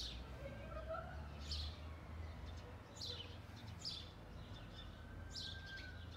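Small birds chirping: short, high, falling chirps about once a second, over a faint, steady low rumble.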